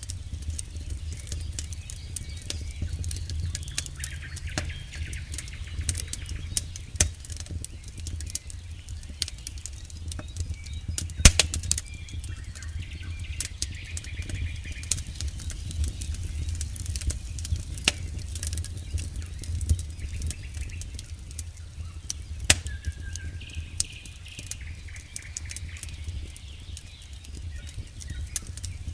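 Wood campfire crackling and popping steadily over a low rumble of the flames, with one sharp, loud pop about eleven seconds in.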